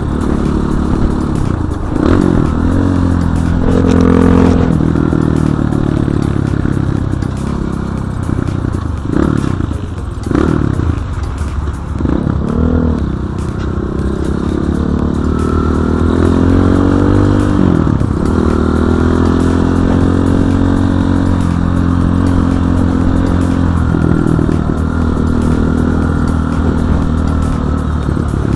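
Enduro dirt bike engine running under way off-road, its pitch rising and falling with the throttle, with several quick drops and pick-ups, then a longer climb and steadier running for the rest.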